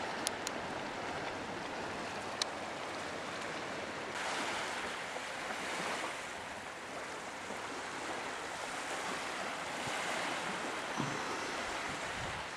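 Water washing and sloshing around a kayak, a steady rush that swells twice, with a few sharp ticks in the first few seconds.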